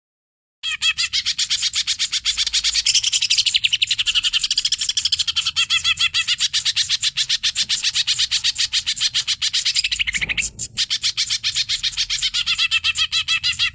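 Cucak ijo (green leafbird) singing hard in a loud, rapid stream of fast repeated high chattering notes, starting half a second in after a moment of silence and breaking off briefly about ten seconds in.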